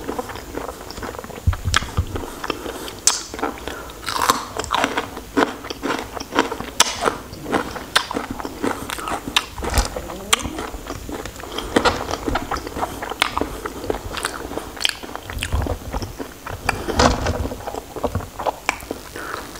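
Close-miked chewing and biting of raw shrimp: irregular wet mouth clicks and crunches, several a second, with a few low bumps.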